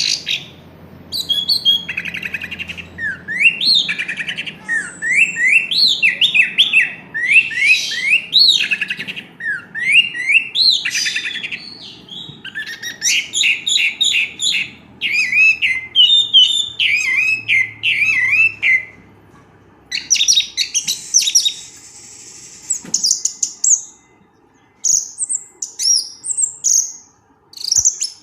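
Orange-headed thrush (anis merah) singing a long, varied song of quick rising whistled notes and rapid trills, with a couple of short pauses.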